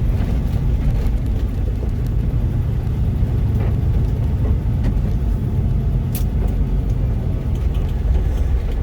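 Mack truck's diesel engine and road noise, a steady low drone while driving at a constant pace, with one brief click about six seconds in.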